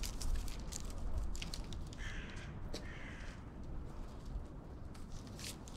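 Two short, harsh bird calls about two seconds in, one after the other, over a low outdoor rumble and a few faint clicks.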